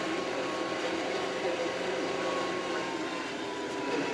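Kioti RX7320 tractor's diesel engine running steadily under load, with a steady whine that drops slightly in pitch near the end.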